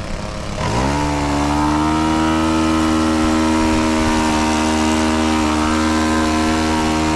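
Radio-controlled model airplane engine revved up from a low run to full throttle under a second in. It holds a steady high-pitched run for several seconds, then is throttled back near the end.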